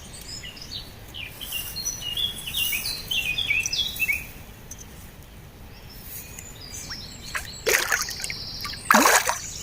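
A songbird singing one quick phrase of short chirps that step down in pitch, over a steady outdoor hiss. Near the end come two brief louder noises.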